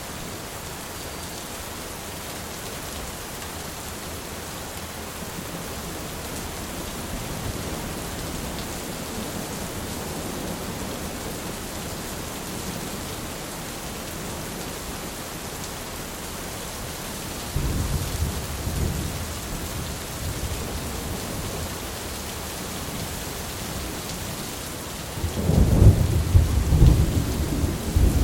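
Steady rain falling through a thunderstorm, with thunder rumbling low in the middle. A sudden thunderclap comes about two-thirds of the way in, and a louder, crackling clap rolls on near the end.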